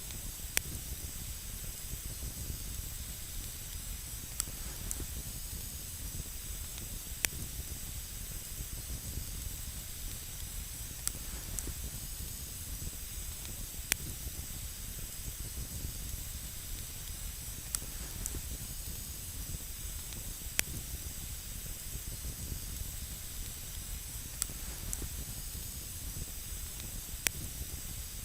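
Wood campfire burning with a steady hiss, with single sharp pops and crackles every three seconds or so.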